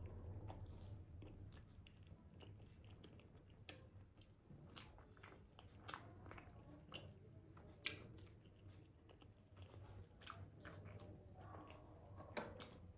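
Faint close-miked eating sounds: chewing and biting of momo dumplings and fried syabale meat pies, with scattered small mouth clicks. Two sharper clicks stand out, at about six and eight seconds in.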